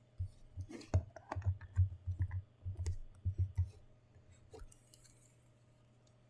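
Quick irregular run of light clicks and knocks from handling a plastic figurine and its packaging, with a few dull thumps, stopping a little after three and a half seconds; one or two more clicks follow near the five-second mark.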